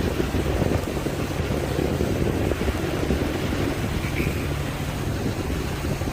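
Tour boat's engine running steadily while under way, with a constant low hum, water rushing past the hull and wind buffeting the microphone.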